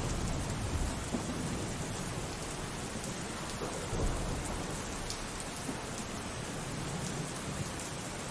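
Steady rain falling, with low rolling thunder rumbling underneath; the rumble swells briefly about four seconds in.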